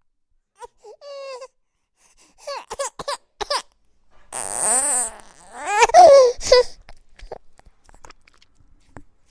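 A baby babbling and squealing: a few short vocal sounds, then longer, louder squeals with a wavering pitch in the middle, somewhere between laughing and fussing.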